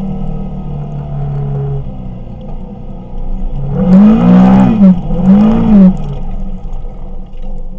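Kawasaki Teryx KRX 1000 side-by-side's parallel-twin engine running steadily while driving, then revving up and back down twice in quick succession about halfway through, the loudest part.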